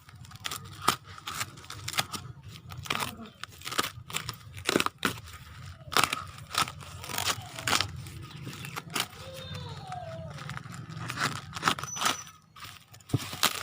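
Packaging being opened and handled: a run of crinkling, tearing and sharp handling noises.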